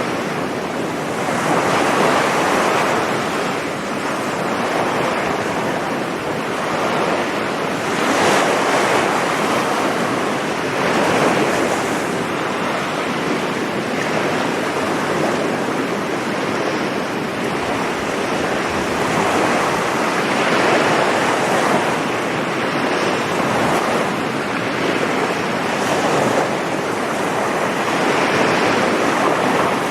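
Sea waves breaking on a sandy beach, the surf swelling and fading every few seconds, with some wind on the microphone.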